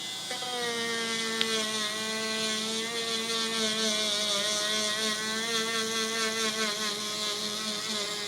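Small handheld electric sanding tool running steadily against a sneaker's yellowed toe box: a motor whine with a grinding hiss, its pitch wavering slightly as it is pressed to the shoe. It comes on just after the start.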